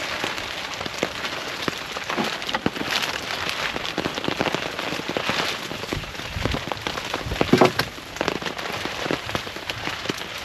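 Heavy rain falling steadily, many separate drops striking close by, with a louder knock about three-quarters of the way in.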